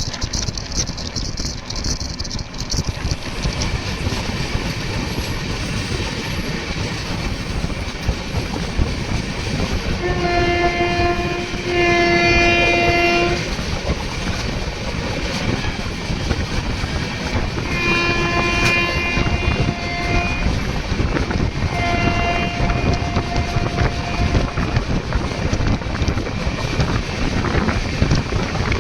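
Running passenger train: a steady rumble and rail clatter of the wheels. The train horn sounds twice about ten seconds in, then several more times from about eighteen to twenty-four seconds.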